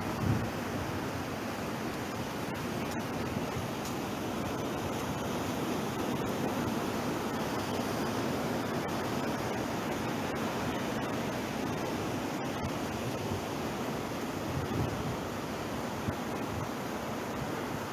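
Ocean surf breaking and washing on the shore as a steady rush, with brief wind buffets on the microphone just after the start and near the end.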